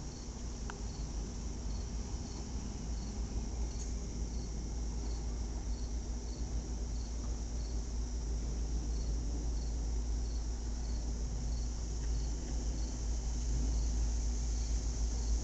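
Crickets chirping steadily at about two chirps a second over a high insect hum, with a low rumble that grows gradually louder as a train approaches the station.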